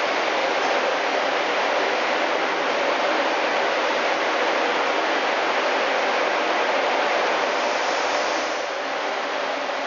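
Intercity passenger train rolling along an underground station platform as it pulls in, a steady rushing rumble from its wheels and running gear. The noise drops a little near the end.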